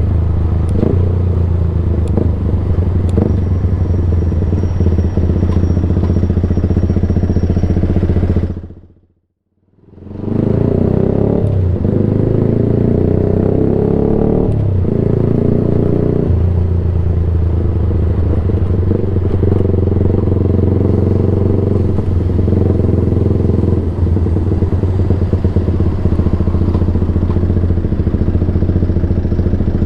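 Yamaha YZF-R sport bike being ridden, its engine loud through a Black Widow end can with no baffle fitted. The engine note runs steadily with some changes in pitch, fading out completely for about a second partway through and then coming back.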